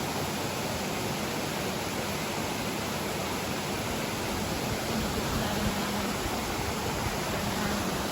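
Running water rushing steadily, a continuous even hiss with no breaks.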